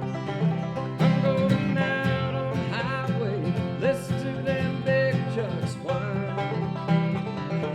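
Live bluegrass played on plucked acoustic strings: an instrumental break between sung verses, with bent notes over a steady picked bass rhythm.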